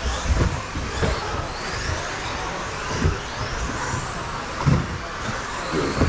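Several 1/10-scale electric stadium trucks with 13.5-turn brushless motors racing together, their motors whining and gliding up and down in pitch as they accelerate and brake. Short low thuds come now and then, about five of them.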